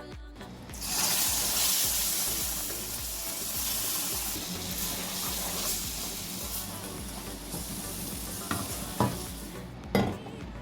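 Food sizzling in a hot pan, the sizzle starting suddenly about a second in and slowly dying down as it is stirred. A few sharp knocks of a utensil against the pan come near the end.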